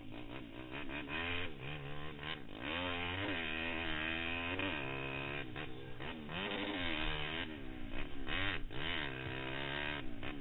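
Pitster Pro LXR160 pit bike's single-cylinder four-stroke engine revving up and down over and over as the throttle is opened and rolled off.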